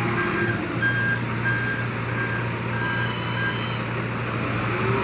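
Truck reversing alarm beeping steadily, about one and a half beeps a second, over the truck's diesel engine running; the beeping stops a little past halfway while the engine runs on.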